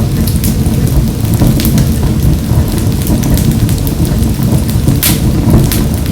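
Wood fire burning in a wood-burning stove: a steady low rumble of the flames with scattered sharp crackles and pops, one louder pop about five seconds in.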